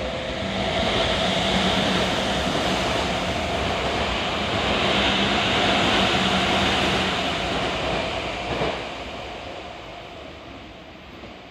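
Yokohama Minatomirai Railway Y500-series electric train passing through a station at speed without stopping: wheels running over the rails with a steady hum. The noise holds for about nine seconds, then falls away as the last car clears.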